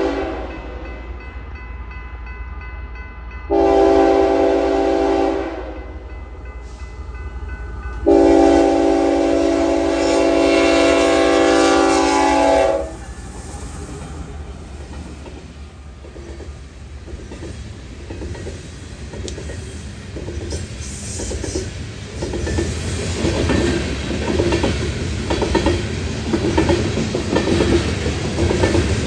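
BNSF coal train's locomotive air horn sounding several chords together, a short blast and then a long one, over the low rumble of the diesel locomotives. The coal cars then roll past with a rhythmic clickety-clack of wheels on the rails, growing louder toward the end.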